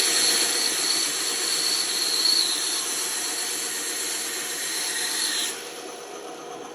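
Band saw blade cutting through wood: a steady high hiss with a thin whine over the running saw, which stops about five and a half seconds in while the saw keeps running.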